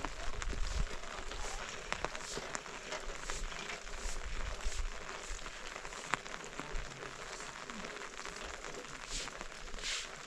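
Steady rain pattering, with scattered sharp ticks of single drops.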